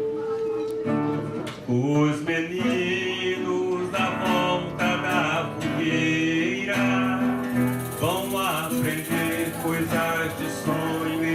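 Samba band playing the instrumental introduction: violão and cavaquinho strumming, with pandeiro strokes.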